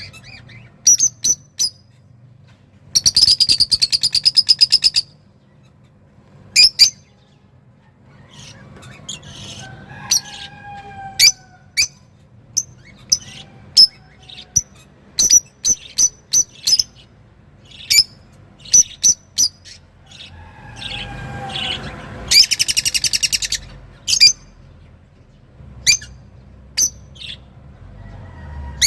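A songbird of the kind Arab bird keepers call 'roz' singing excitedly: sharp high chirps scattered all through, broken by two fast rattling trills, about three seconds in and again about twenty-two seconds in.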